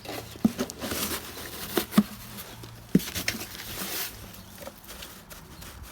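Sawdust being scooped and packed into a small pot: scraping and rustling with a few light knocks.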